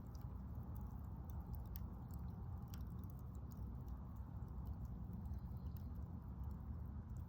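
Wood campfire burning, with small irregular crackles and pops over a low steady rumble.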